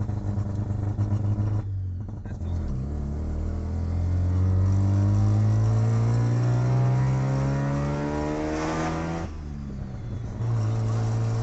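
Mazda RX-3's rotary engine, heard from inside the cabin, accelerating through the gears: a brief break for a gear change about two seconds in, then a long rising run of revs that cuts off with another shift near nine seconds, before the engine picks up again at a steadier note.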